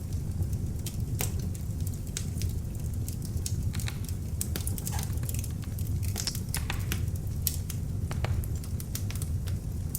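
Beech-wood log fire burning in an open fireplace, with a steady low rumble of the flames and frequent sharp, irregular crackles and pops.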